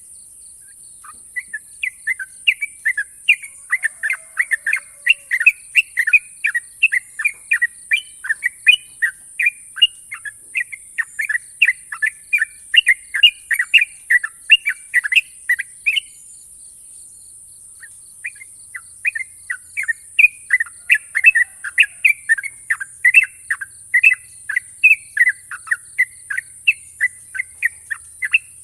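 Yellow-vented bulbul (trucukan) singing a long, fast run of rapid-fire chirped notes. The song stops for about two seconds just past the middle, then resumes. A steady high hiss sits underneath.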